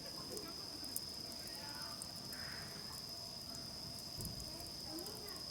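Campfire crackling with scattered sharp pops, over a steady high insect trill.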